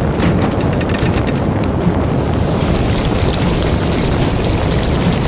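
Loud, continuous deep rumble with crackling in the first two seconds. A steady hiss like heavy rain joins about two seconds in.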